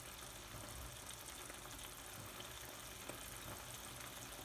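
Faint, steady sizzling of thick beef masala cooking in a frying pan, over a low steady hum.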